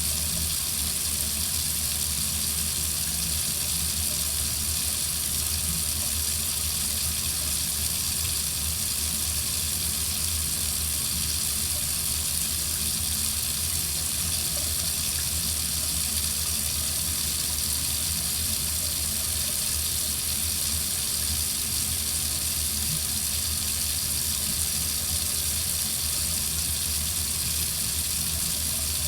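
Water faucet running in a steady, unbroken stream: an even hiss of water with a low rumble underneath.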